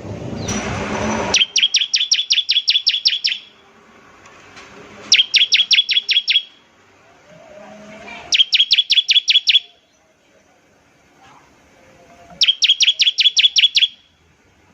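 Bar-winged prinia (ciblek) giving four fast rattling bursts of about eight sharp, high notes a second, each burst lasting one to two seconds, the 'nembak ngebren' song. A rush of noise comes just before the first burst.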